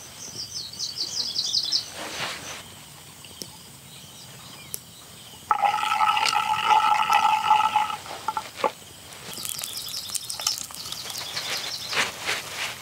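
Birds chirping briefly, then a loud, steady pitched tone lasting about two and a half seconds, then chopped chillies and garlic sizzling in hot oil in a clay pot from about three quarters of the way in.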